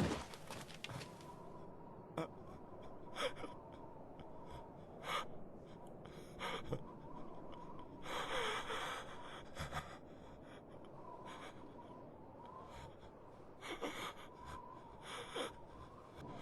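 Short, separate gasping breaths from a character, scattered through the stretch, with the longest about two-thirds of the way in, over a faint steady high tone.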